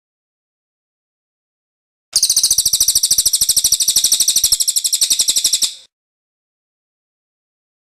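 Cililin bird singing its rolling song (ngerol): one rapid, high trill of evenly repeated notes, about three and a half seconds long, starting about two seconds in and cutting off abruptly.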